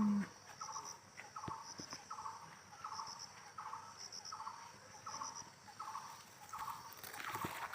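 A bird giving a steady series of short chattering calls, about one every 0.7 seconds, with a faint high triple chirp repeating about once a second behind it. A brief low hum sounds right at the start.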